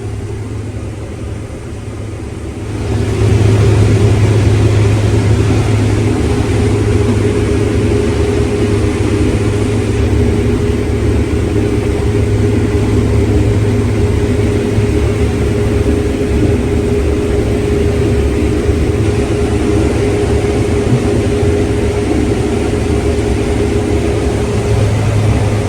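Combine harvester running under load while harvesting corn: a steady engine-and-machinery drone with a constant hum. It gets markedly louder about three seconds in, then holds steady.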